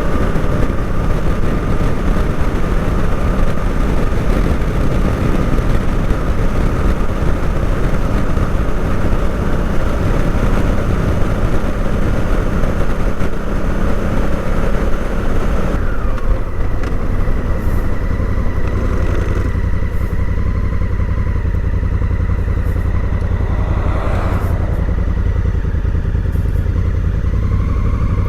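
A Honda Africa Twin motorcycle engine running, with a steady rushing noise over it. About halfway through the rushing thins and a deeper, steady rumble takes over.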